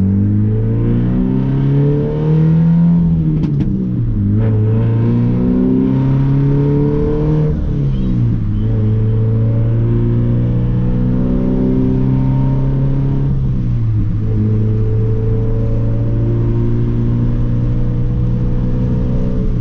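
Scion FR-S flat-four with the muffler and resonator deleted, accelerating hard: the exhaust note climbs in pitch and drops sharply at each of two upshifts. It then holds a steady pitch at cruise, with one more drop later.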